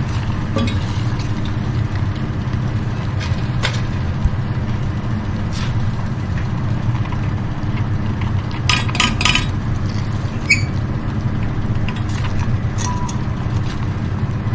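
A spoon clinks and scrapes now and then against a saucepan of blueberries cooking down in sugar, with a quick run of clinks near the middle, over a steady low hum.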